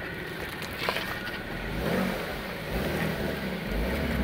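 Stock 1993 Toyota Supra Twin Turbo's 2JZ-GTE straight-six engine and exhaust as the car pulls away, growing louder near the end as it passes close by.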